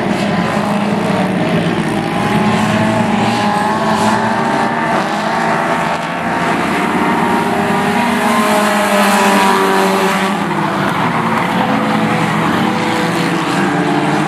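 A field of Warrior-class race cars running at racing speed, several engine notes rising and falling over one another as the cars go past.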